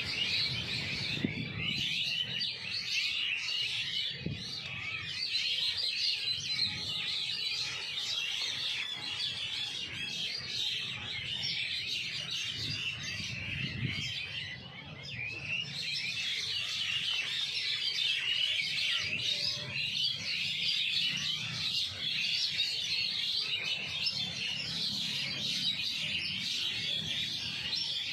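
Many small birds chirping at once, a dense, unbroken chorus of high twitters that thins briefly about halfway through.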